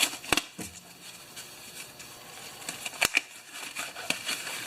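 Bench handling of a lawn mower's recoil starter parts: a few sharp clicks and light rustling, with no motor running.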